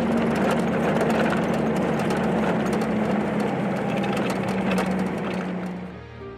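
Pickup truck engine running steadily, with a hum that sinks slightly in pitch. It fades out about six seconds in.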